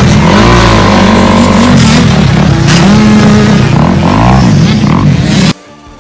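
Off-road vehicle engine revving, its pitch rising and falling several times, then cutting off suddenly about five and a half seconds in.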